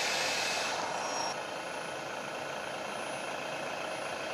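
Radio-controlled scale bulldozer running: a steady mechanical noise that loses its hiss and drops a little in level about a second in.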